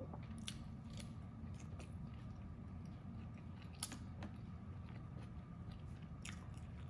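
Close-miked chewing of Peking duck and pancake: a few separate wet mouth clicks and smacks, roughly one every second or so, over a steady low hum.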